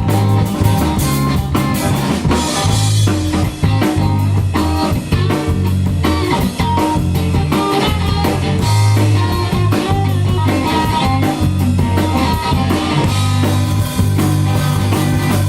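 Live rock band playing an instrumental passage between sung lines: electric guitar, bass and drum kit.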